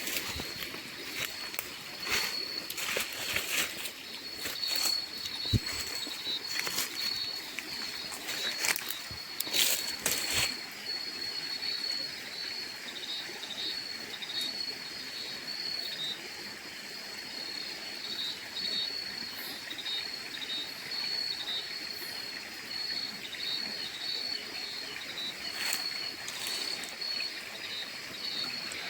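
Insects chirring steadily in a high, pulsing trill, with scattered knocks and rustles during the first ten seconds or so.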